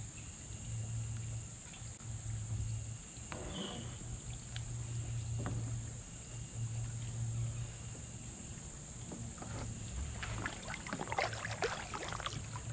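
Kayak paddling: paddle strokes in the water with scattered knocks and splashes, growing busier near the end, over a steady high-pitched chorus of crickets or other insects.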